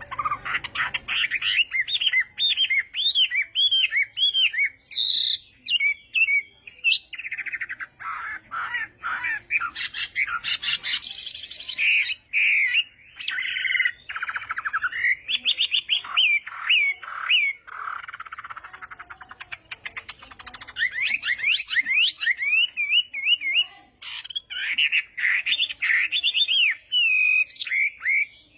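Chinese hwamei singing a long, varied song of rapid whistled slurs and trills, broken by harsher buzzy phrases in the middle.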